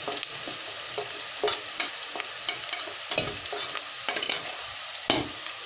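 Whole spices and onions sizzling in hot oil in an aluminium pot: a steady hiss with irregular scrapes and taps of a spoon, louder about five seconds in.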